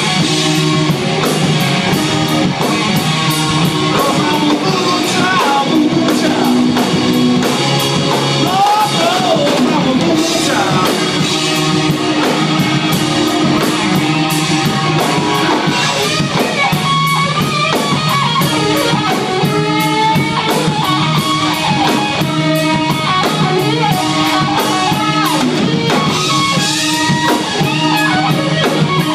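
A rock band playing live through a PA, with electric guitar, drum kit and a lead vocal or guitar line.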